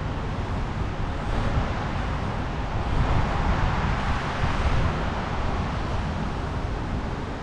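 Steady road and engine noise of a vehicle being driven. A rushing noise grows louder about three seconds in, then eases.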